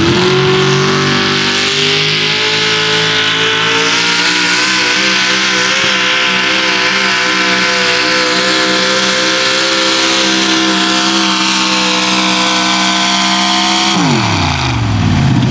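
A 6200 lb 4x4 pulling truck's engine held at high revs under full throttle through a pull, its pitch climbing slightly at first and then steady. About 14 seconds in the revs fall away quickly as the throttle is let off at the end of the run.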